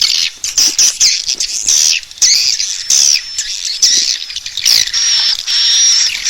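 Swiftlet calls: a dense, continuous chatter of high-pitched chirps and short twittering glides from many birds. This is the kind of swiftlet call played to draw swiftlets into a nesting house and get them to roost.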